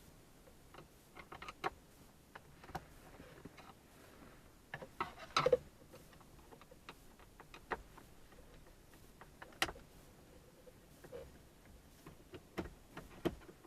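Scattered small clicks and taps of a screwdriver and screws being worked on plastic dashboard trim, with a louder cluster of knocks about five seconds in.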